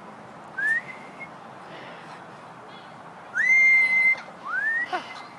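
A parrot whistling: three rising whistles that level off and hold. There is a short one about half a second in, a longer held one a little past three seconds, and a quick rising one near the end.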